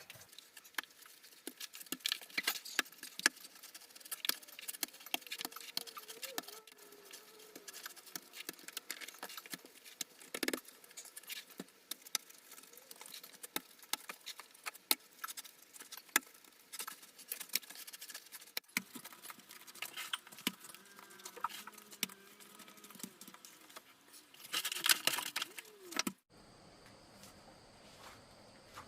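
Wood fire crackling, with sharp pops scattered throughout, then cutting off suddenly near the end.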